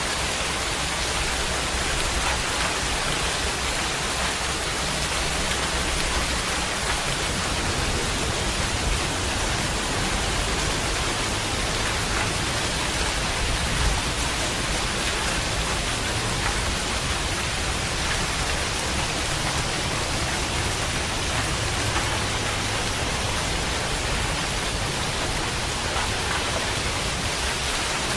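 Steady heavy rain falling, an even hiss with occasional faint drop ticks and one slightly louder spatter about halfway through.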